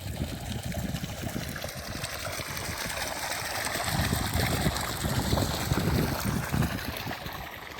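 Irrigation water flowing and splashing steadily into the field.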